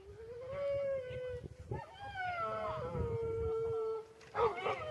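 A dog howling and whining in long drawn-out notes, each held for a second or more and sliding slightly in pitch, with a brief louder, sharper outburst near the end.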